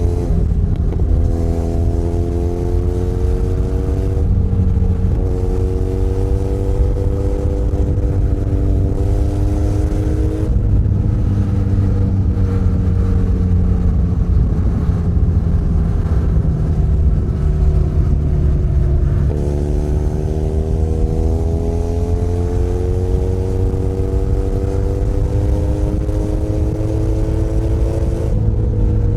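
Benelli Leoncino 500 Trail's parallel-twin engine under way. Its pitch climbs and drops back at each gear change during the first third, then sinks slowly for about eight seconds as the bike slows. It jumps up and climbs again about two-thirds in, with another shift near the end.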